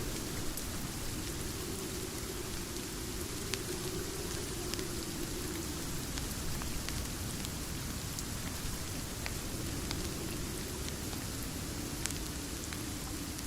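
Steady rain falling, mixed with the faint, scattered crackles of a fireplace.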